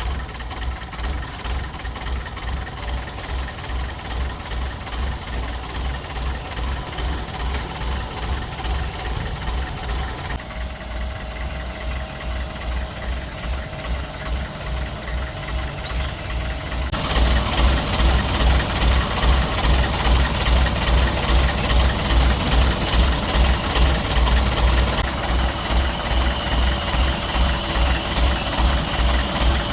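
An engine running with a steady, rhythmic low thumping, louder in the last part. The background changes abruptly a few times, as at cuts between shots.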